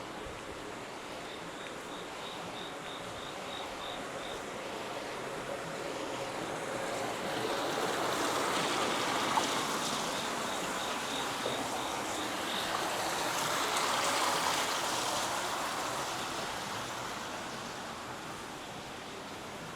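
Rushing water growing louder for several seconds and then fading again, with an insect chirping in a fast, even, high pulse, about three chirps a second, near the start and again in the middle.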